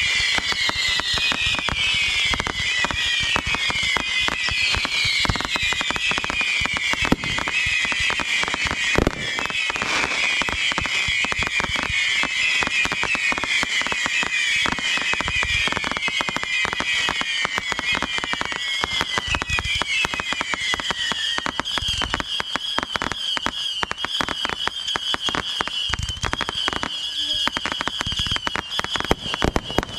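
Consumer fireworks going off: dense, rapid crackling throughout, with many falling whistles layered over it for about the first twenty seconds, then a steady high whistle to the end.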